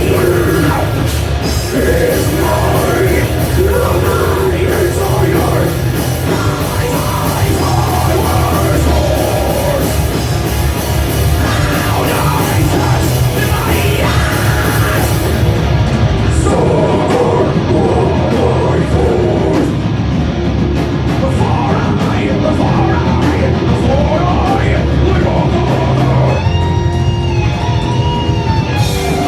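Rock band playing loud, heavy live music, with a singer's vocals over guitars and drums.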